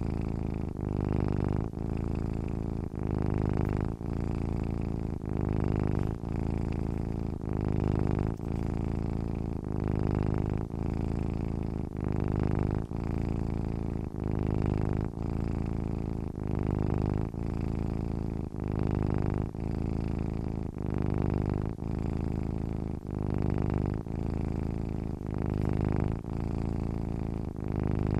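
Domestic cat purring steadily while asleep. The low purr breaks briefly about once a second as it switches with each in- and out-breath.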